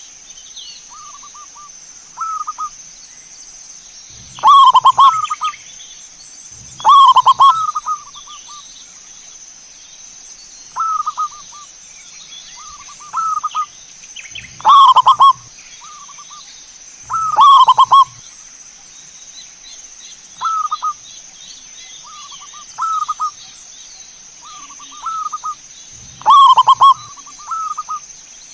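Zebra dove (perkutut) song: short staccato cooing phrases repeated every one to three seconds, several of them very loud and distorted, with softer phrases in between. A steady high whine runs underneath.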